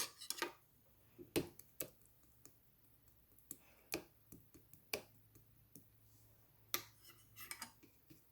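Blue slime being pressed and played with by hand, giving irregular small clicks and pops.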